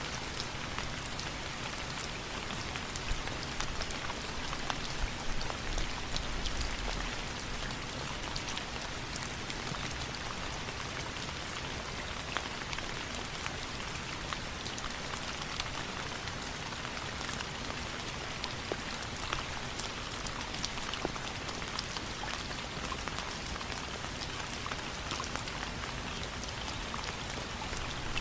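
Steady rain falling, with many scattered sharp ticks and a brief low rumble about six seconds in.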